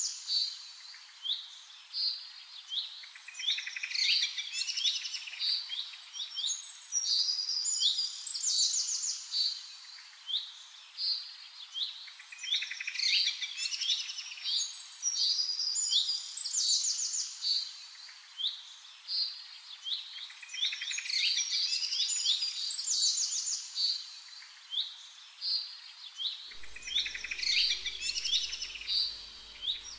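Birds chirping and trilling: a phrase of high chirps and quick trills that comes back about every four seconds.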